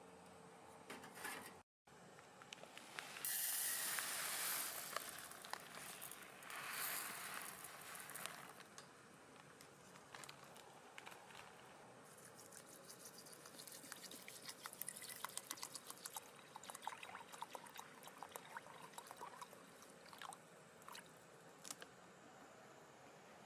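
Water pouring in two splashy spells a few seconds apart, followed by a long run of small crackles and ticks.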